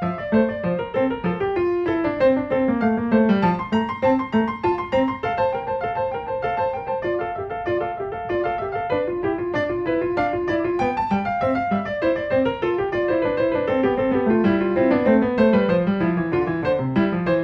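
Background piano music: quick runs of notes that fall and rise again.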